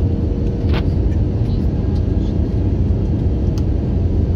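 Steady cabin noise inside an Airbus A321-200: a loud, even rumble of engines and airflow with a constant hum running under it, and a few faint clicks.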